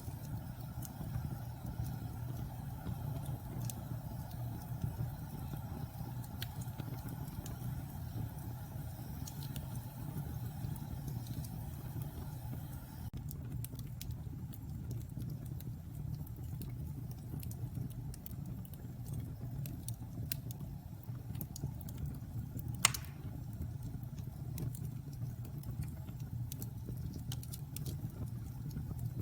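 Wood fire burning in a fireplace: a steady low rumble of flames with scattered small crackles and one sharp, louder pop about three-quarters of the way through.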